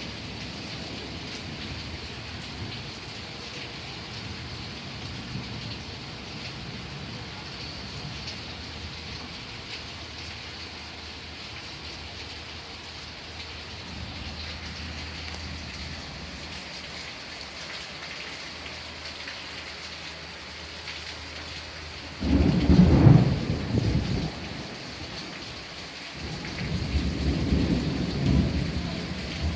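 Thunderstorm: steady rain falling, then a loud clap of thunder that starts suddenly about 22 seconds in and rumbles for about two seconds, followed by a second rolling rumble of thunder near the end.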